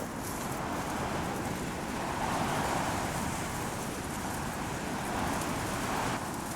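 Strong wind gusting through stiff-branched Teide broom bushes, the branches and leaves rustling with a few faint clicks. The wind swells twice and eases off sharply near the end.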